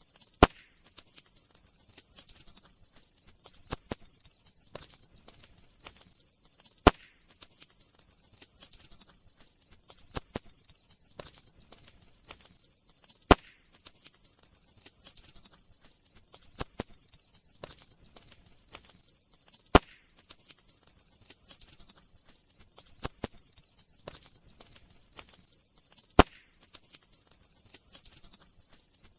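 Wood fire crackling steadily with small snaps and a faint hiss, and a loud sharp pop about every six and a half seconds.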